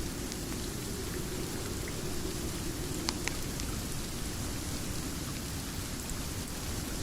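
Steady rain, an even hiss with a low rumble beneath it, with a few sharp clicks a little past three seconds in.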